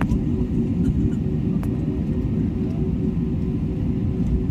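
Cabin noise of an Airbus A320neo: a steady low rumble with a constant hum from the engines and airframe while the aircraft taxis, with a few faint clicks.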